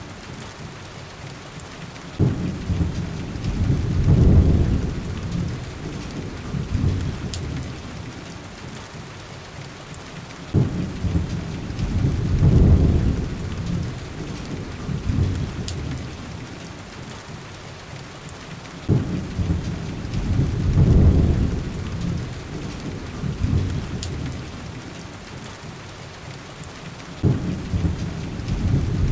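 Heavy rain hissing steadily, with low rumbles of thunder rolling in four times about eight seconds apart; each starts abruptly and swells for a couple of seconds before fading. A few faint sharp ticks sit on top.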